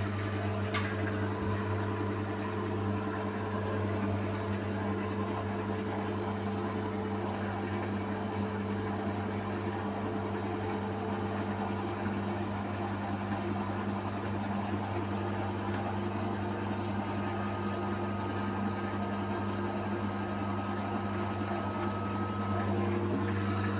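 Beko WMY81283LMB2 washing machine running, a steady low motor hum that holds the same pitch and level throughout.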